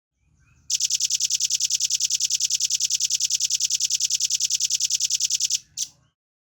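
Velvet-fronted nuthatch singing a rapid, even trill of high notes, about ten a second, held for about five seconds. It ends with one short separate note.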